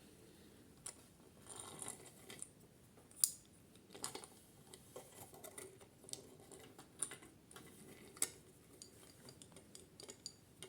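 Irregular light clicks and rustling, as of small hard objects being handled, with two sharper clicks standing out about three and eight seconds in.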